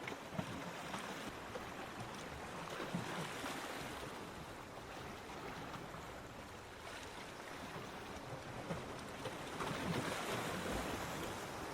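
Ocean surf washing onto a beach, swelling and ebbing, with the biggest surge near the end.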